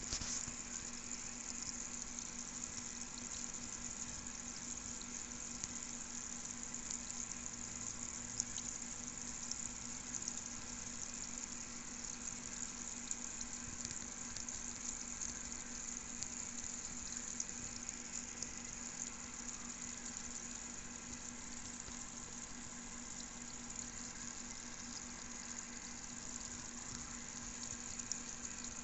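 Steady fizzing water noise of a running aquarium, with a low steady hum from the tank's equipment and a few faint ticks.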